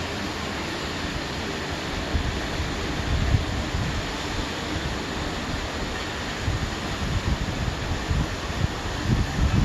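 Strong wind gusting and buffeting the microphone over a steady rushing hiss, the gusts growing heavier in the second half.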